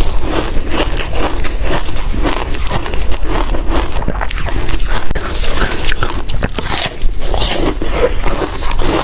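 Ice being bitten and chewed: a dense, continuous run of crisp crunches.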